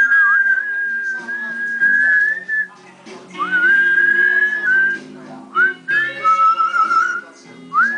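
Blue-fronted Amazon parrot whistling a learned tune in long held notes, each phrase opening with a quick upward swoop; about three phrases, with a fourth starting near the end.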